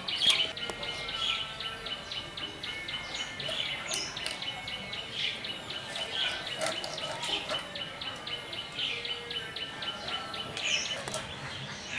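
Scattered short bird chirps over a quiet outdoor background hiss.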